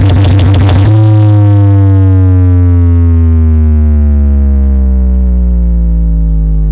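Electronic dance music with a fast beat played very loud through a large sound-system rig. About a second in, it gives way to one held synth tone with heavy bass that slowly glides down in pitch.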